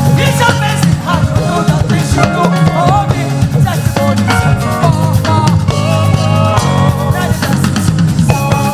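Loud, upbeat live gospel band music with drums and bass playing steadily.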